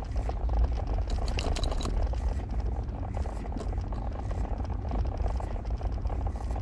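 A car driving, heard from inside the cabin: a steady low rumble of engine and tyres on the road, with a few light rattling clicks about one to two seconds in.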